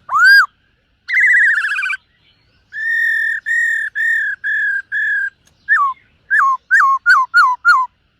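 Black-throated laughingthrush singing loud, clear whistles. It gives a rising note, then a quavering note, then a run of six even notes, and ends with a quick series of seven short falling notes.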